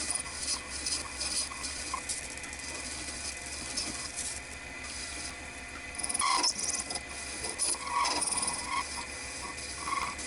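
Lathe running with a steady motor hum while a turning tool cuts a spinning piece of clear acrylic, giving irregular high scraping, louder around six and eight seconds in.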